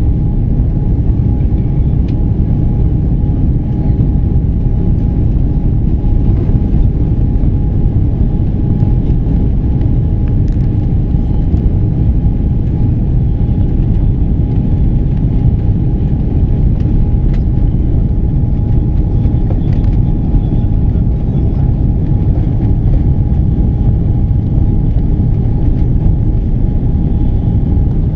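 Steady engine and airflow rumble inside the cabin of an Airbus A330-300 airliner on its landing approach, with a steady whine held over the low roar.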